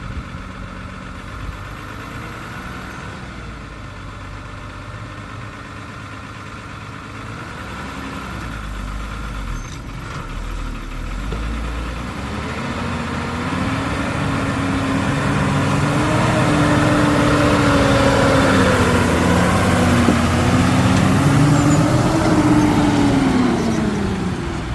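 Heavy diesel engine running, building up in speed and loudness from about halfway through and held high with its pitch wavering up and down, then easing off near the end.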